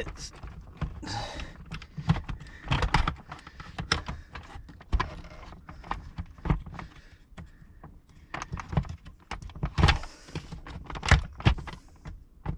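Irregular plastic clicks, knocks and scraping as a shower pump is lifted and worked into the plastic housing of a digital shower processor unit, its O-ring seal not seating easily.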